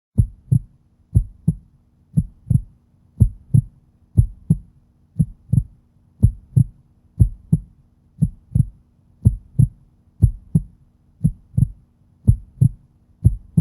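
Heartbeat sound effect: paired lub-dub thumps at about one beat a second, over a faint steady hum.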